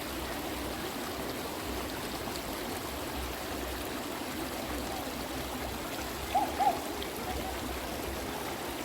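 A stream running steadily, with two short chirping notes about six seconds in.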